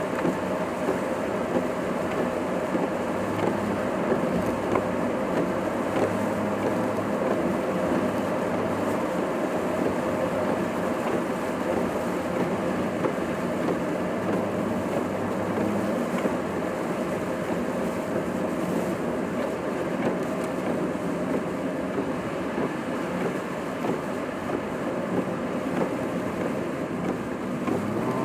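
Steady road and engine noise of a car being driven, heard from inside the cabin, with no sudden events.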